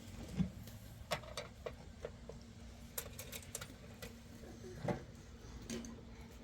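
Scattered light clicks and knocks of small objects being handled, about a dozen at uneven intervals, over a faint steady hum.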